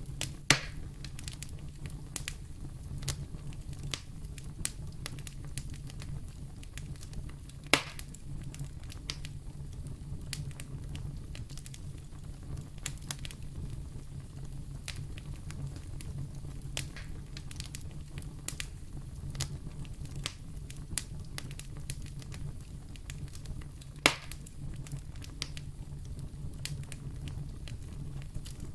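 Wood fire burning in a fireplace, a steady low rumble with continual small crackles and three louder pops: one just after the start, one about eight seconds in and one about 24 seconds in.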